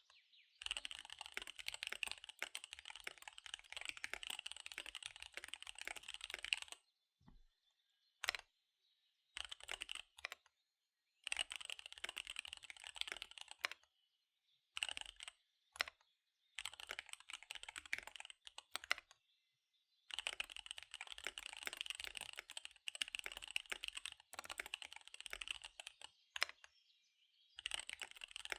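Fast typing on a KBD75 V3 mechanical keyboard with SP-Star Dark Magic Girl tactile switches and DSA keycaps. Rapid key clicks come in runs of a few seconds broken by short pauses, with the longest runs at the start and in the second half.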